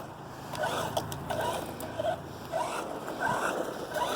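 Hosim S911 RC truck's electric motor and drivetrain whining in short repeated bursts as the throttle is blipped. The truck is starting to run slow, which the owner says it is not supposed to do.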